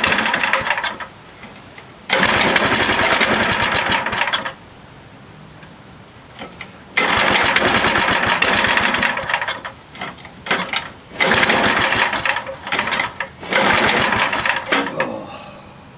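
7 hp Tecumseh small engine being cranked over hard in five bursts of one to two and a half seconds each, turning fast with gaps between the bursts. It never keeps running: it wants to go but has no spark.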